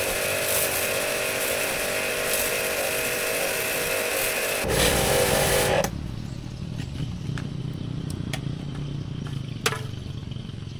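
A small motor or power tool running steadily at a high pitch, cutting off suddenly about six seconds in, followed by scattered light clicks and knocks.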